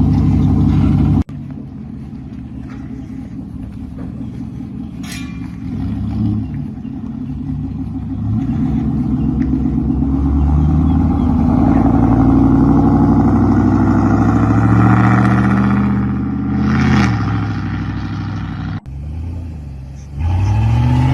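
Loud straight-piped exhaust of lifted and squatted pickup trucks driving by. One truck grows steadily louder and passes about 15 seconds in, with its pitch sweeping as it goes. Near the end another truck revs up, its pitch rising.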